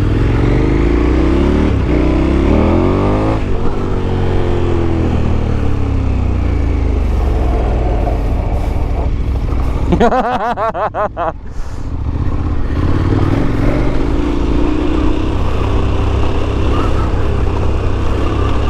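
KTM 1290 Super Adventure S's 1301 cc V-twin engine running under way off-road, its revs rising and falling. About ten seconds in the engine note wavers and dips briefly, then picks up again.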